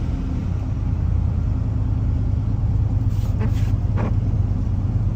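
Cammed twin-turbo LS V8 running steadily at light throttle while cruising, heard from inside the car, with a few brief faint hissy chirps about three to four seconds in.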